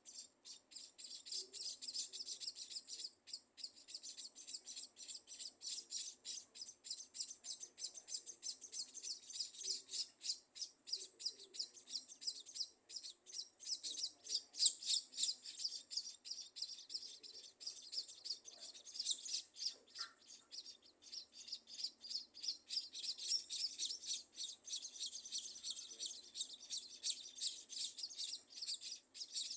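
Scaly-breasted munias chirping: a dense, continuous run of rapid, high-pitched chirps, several a second.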